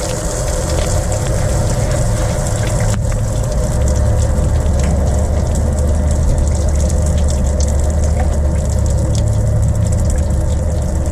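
Water gushing from a small freeze-burst water pipe under pressure: a steady rush with a low rumble that gets a little stronger about a third of the way in.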